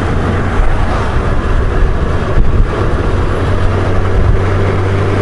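Honda Gold Wing GL1500's flat-six engine running at a steady cruise, a constant low hum under wind and road noise.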